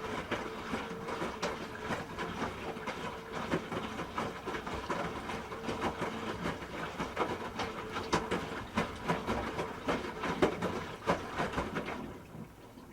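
Hoover H-Wash 300 Plus washing machine drum turning during a rinse, with a steady motor hum and irregular knocks and sloshing from the wet laundry tumbling. The drum stops about twelve seconds in.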